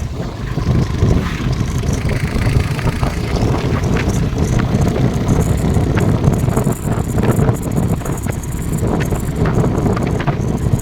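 Loud wind buffeting on the microphone over a steady low rumble.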